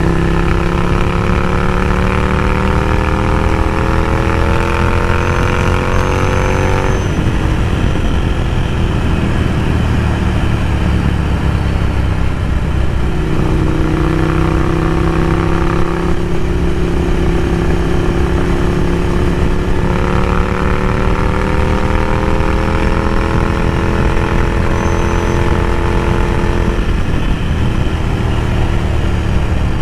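Ducati Scrambler Café Racer's 803 cc air-cooled L-twin running through a Vance & Hines slip-on exhaust while riding. The engine pitch climbs under acceleration, drops suddenly about seven seconds in, then runs fairly steady. It climbs again from about twenty seconds and drops once more near the end.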